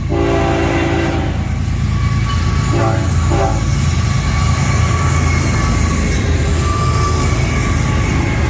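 Freight locomotive air horn sounding a long blast, then two short blasts about three seconds in, over the loud, steady low rumble of the locomotives rolling past at very close range.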